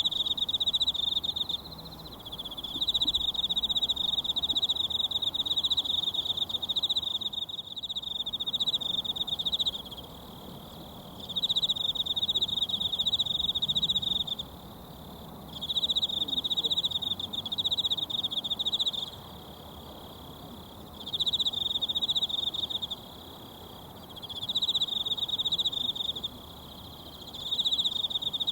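An insect trills in repeated high, rapidly pulsed phrases a few seconds long, with short pauses between them. Under it runs the steady rushing hiss of a mountain stream.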